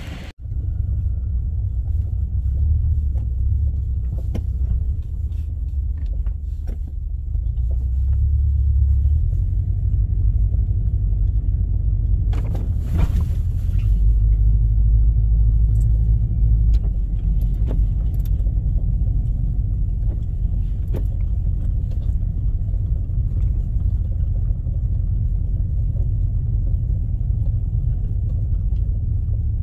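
A vehicle driving, heard as a steady low rumble of engine and road noise with a few scattered light knocks and rattles; the rumble grows a little louder about halfway through.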